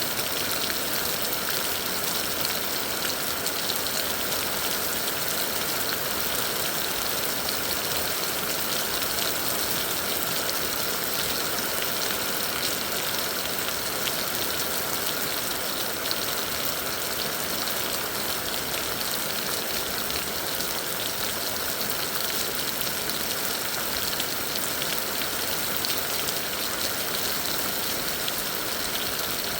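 Heavy rain falling steadily, an even hiss of many drops that holds at the same level throughout.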